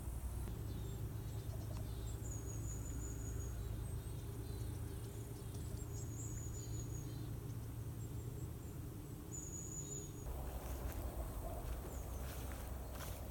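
Small birds giving short high trilled calls three times over a steady low rumble; about ten seconds in the background shifts and a few light clicks and rustles follow.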